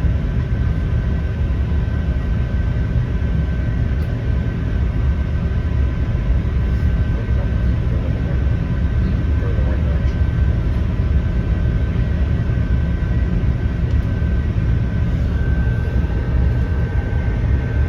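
Class 166 diesel multiple unit heard from inside the carriage as it pulls away: a steady low engine and running rumble from under the floor, with a thin steady whine that grows louder near the end.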